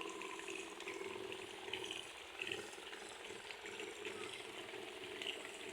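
River water flowing and lapping, a steady crackling hiss with a low steady hum beneath it.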